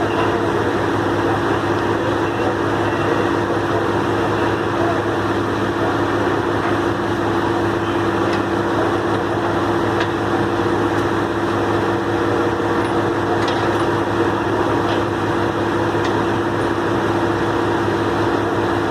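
Heavy truck diesel engine running steadily at a constant speed, with a strong low hum that holds the same pitch throughout.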